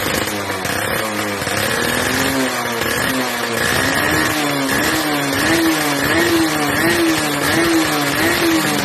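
Yamaha F1ZR 110 cc two-stroke single-cylinder engine through an aftermarket racing exhaust, revved in a steady run of short throttle blips, a little more than one a second, and settling back to idle near the end.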